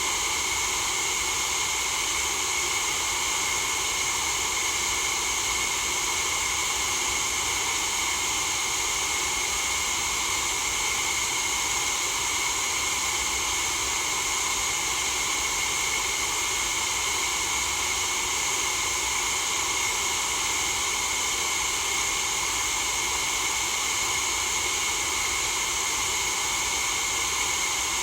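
Steady white-noise hiss for sleep, unchanging throughout, brightest in the upper range with a faint even rumble beneath.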